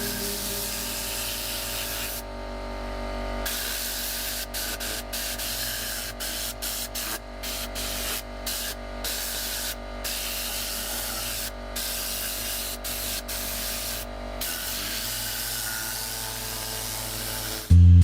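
Spray hissing steadily. About two seconds in it stops for about a second, then runs on with many short breaks.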